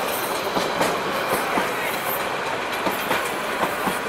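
Passenger coaches of a train rolling past close by: a steady rush of wheel-on-rail noise with irregular sharp clicks from the wheels running over the track.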